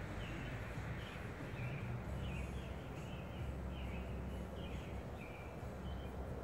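Small birds chirping in short repeated calls, about two a second, over a steady low hum.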